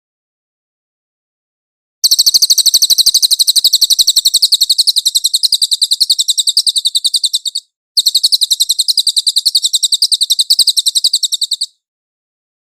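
A cililin songbird singing two long, fast, very high-pitched trills of rapidly repeated notes, with a short break between them, on a clean recording with no background noise.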